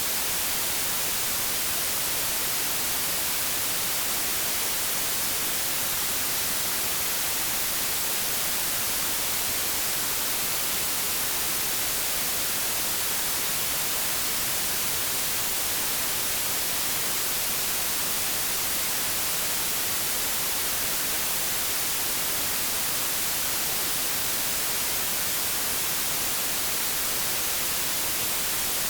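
Steady white-noise static, a constant even hiss like an untuned television or radio, with no change in level or pitch.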